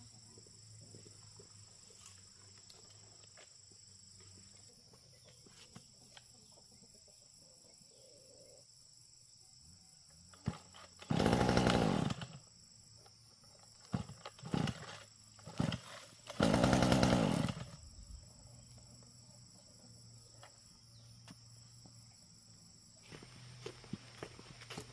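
Small lawnmower-type petrol engine firing briefly twice, each time running for about a second and then dying, typical of pull-start attempts on an engine that won't yet keep running.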